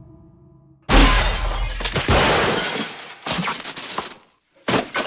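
A sudden heavy crash about a second in, then dense breaking and shattering debris. It cuts off sharply and bursts in again near the end.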